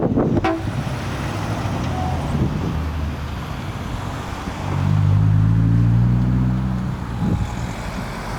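A car's engine and exhaust as it drives off: a low rumble that swells to its loudest about halfway through, the note rising slightly under acceleration, then easing off about a second before the end.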